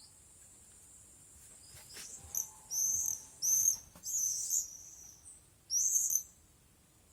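Small birds giving several short, high-pitched chirps, bunched in the middle of the stretch, over a steady high insect trill.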